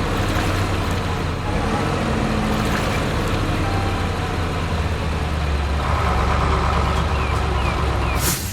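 Heavy truck engine sound effect running steadily with a low rumble, which grows a little heavier about five and a half seconds in.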